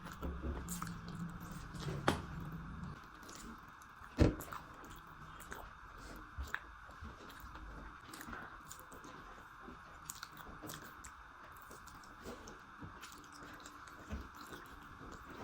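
A person chewing and eating food, with irregular wet mouth clicks and smacks; one sharp click about four seconds in is the loudest.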